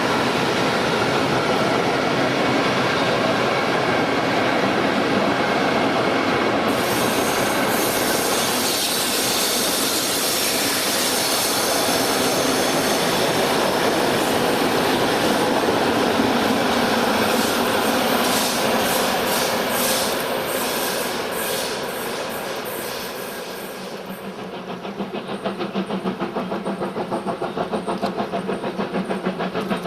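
A train running by on the rails, a loud steady rolling noise that eases off about three-quarters of the way through and gives way to a regular pulsing.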